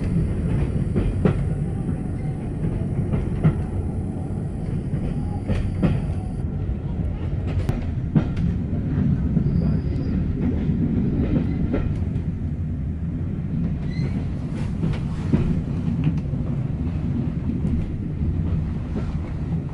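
Railway carriage running along the track: a steady low rumble with scattered clicks of the wheels over the rail joints.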